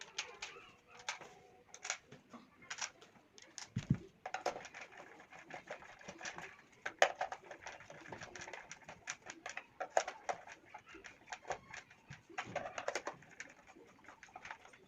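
Many small sharp clicks and knocks of a plastic power-strip casing and its parts being handled and fitted back together as it is closed up.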